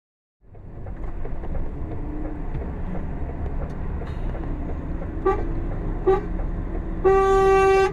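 Car horn over steady traffic and engine rumble: two short toots about five and six seconds in, then a longer, louder blast near the end.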